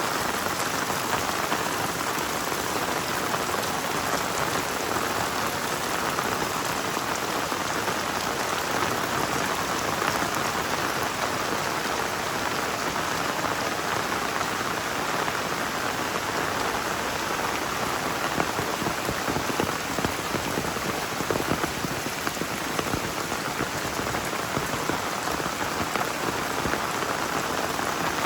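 Heavy rain falling steadily in a dense, even patter, with a few sharper drop taps standing out past the middle.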